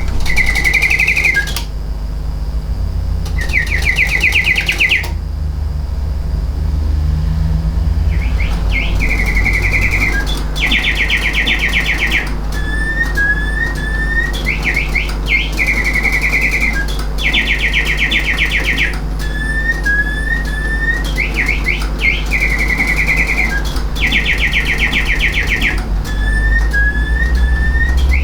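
Antique singing bird automaton, c.1880–1890, whistling its mechanical birdsong: warbled phrases, fast trills and short rising chirps in a song that repeats about every seven seconds, over a steady low rumble.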